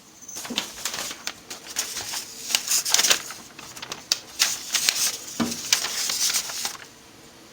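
Newspaper rustling, with irregular small clicks and clatters as the floor of a bird cage is handled.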